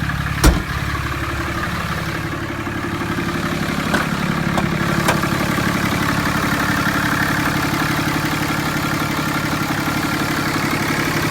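Dodge Ram 3500's 6.7 L Cummins turbo diesel idling steadily, through a 4-inch turbo-back exhaust. A sharp clunk about half a second in, and a few lighter clicks around four to five seconds in.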